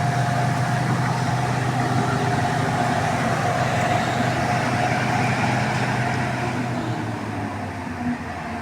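A motor vehicle's engine running steadily with a low hum and a thin steady whine above it, easing off about seven seconds in.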